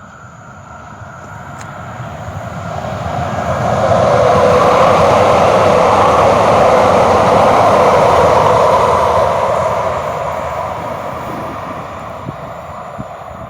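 A vehicle passing close by: a rushing noise that swells over a few seconds, holds loud for several seconds, then fades away.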